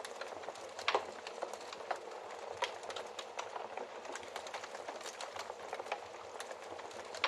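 Wood fire crackling, with a steady hiss and irregular sharp pops and snaps. The loudest pop comes about a second in.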